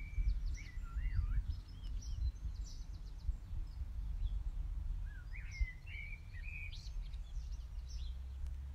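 Songbirds calling in short, scattered phrases of warbling, up-and-down notes, in the first second or so and again about five seconds in, over a steady low rumble.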